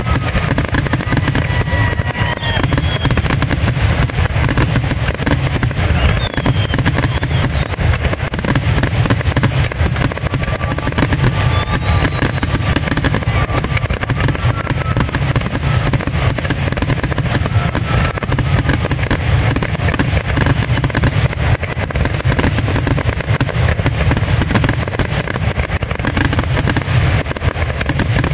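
Fireworks grand finale: a dense, continuous barrage of shell bursts and crackle, with no gaps between the blasts and a heavy low rumble.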